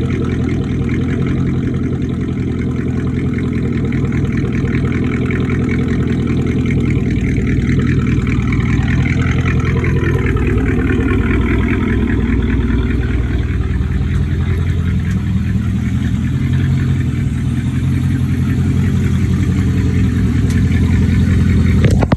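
2006 Dodge Charger's 5.7 Hemi V8 idling steadily through Magnaflow high-flow catalytic converters and straight pipes after a cold start.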